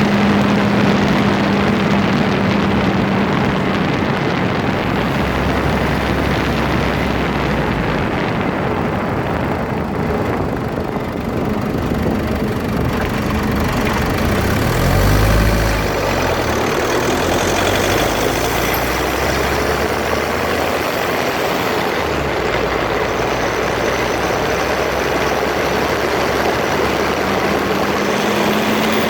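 Drivetrain noise recorded close to a Land Rover Freelander 2's front differential, with the grinding noise the owner is chasing: a dense steady rush with a humming tone that fades out a few seconds in and comes back, rising slightly, near the end, and a brief deep rumble about halfway.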